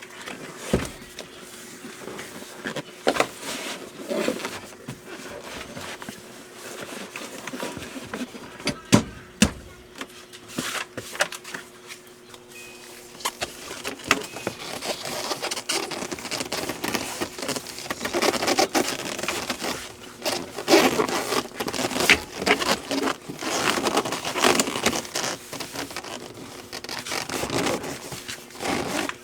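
Irregular scrapes, clicks and knocks of hand work, busier in the second half, over a faint steady hum.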